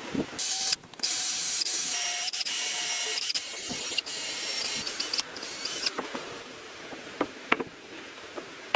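A loud steady hiss with faint whistling tones, breaking off briefly about a second in and cutting off about six seconds in, followed by a few sharp clicks.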